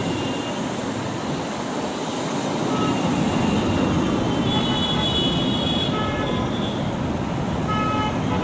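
Steady road traffic noise with several short vehicle horn honks, the longest and highest lasting about a second and a half in the middle.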